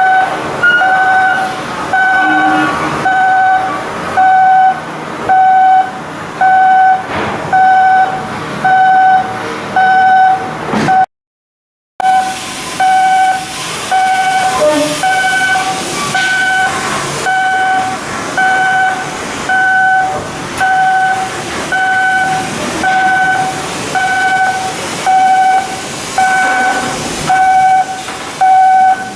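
Electronic warning beeper on shipyard machinery sounding a steady, even beep about once a second over general work noise. The sound cuts out for about a second near the middle.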